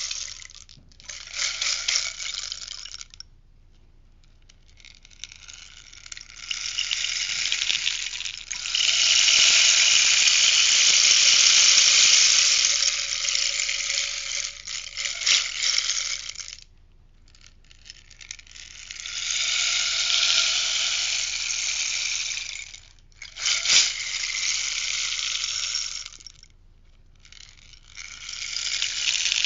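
Rainstick turned over again and again, its beads pouring down the tube in a rushing, rain-like hiss. There are about five cascades with short pauses between them; the longest runs about ten seconds, and there is one sharp click about three-quarters of the way through.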